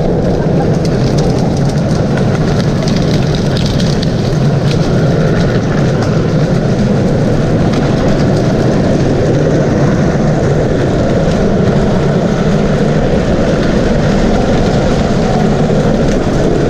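Loud, steady vehicle engine running under way, with continuous road and ride noise.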